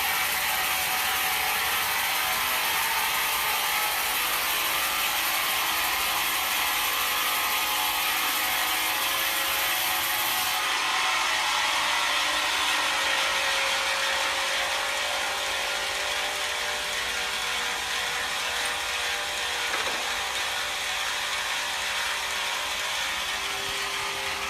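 Wood-milling machinery running with a steady, dense mechanical noise. The sound eases slightly in the second half.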